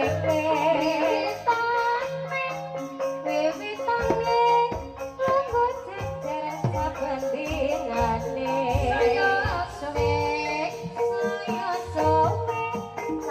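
A sinden singing a wavering, ornamented Javanese melody over traditional accompaniment, with repeated low drum strokes.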